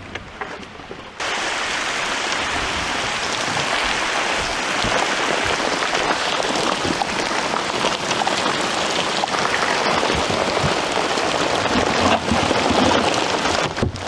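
Heavy rain pouring down in a thunderstorm, a dense steady hiss that starts suddenly about a second in.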